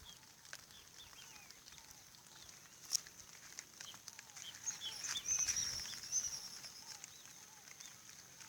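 Outdoor ambience of animals calling: many small chirps over a steady high whine, with a louder warbling call about five seconds in and a few faint clicks.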